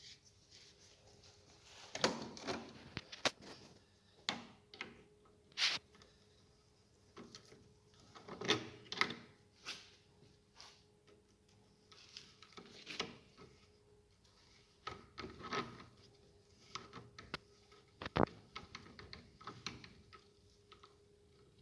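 Irregular metallic clicks, knocks and handling noises as the threaded adjuster plug is screwed into a steering rack housing over the worm-shaft bearing. A faint steady hum sits underneath.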